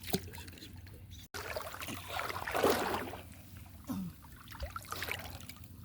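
Water splashing and trickling in uneven surges, loudest about halfway through.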